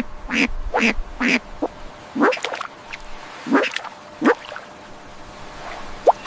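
Domestic waterfowl calling in a series of short quacking calls: three in quick succession at the start, a few more about a second apart, then thinning out, with one short sharp call near the end.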